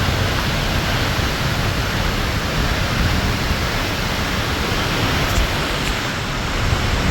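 Waterfall pouring over the edge, heard from behind the falling water: a steady, dense rush of water noise.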